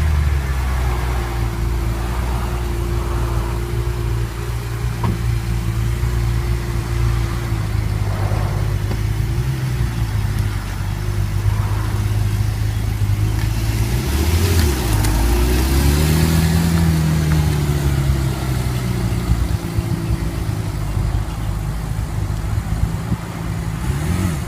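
A car engine running steadily with a deep hum, its pitch shifting up and down briefly about two-thirds of the way through as it revs.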